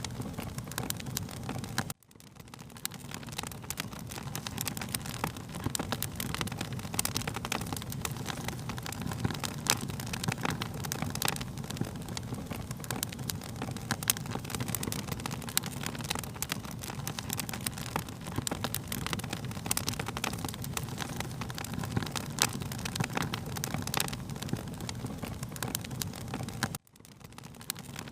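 Wood fire crackling, with frequent sharp pops and snaps over a steady low rumble of the flames. The sound drops out abruptly for an instant about two seconds in and again near the end, then swells back up.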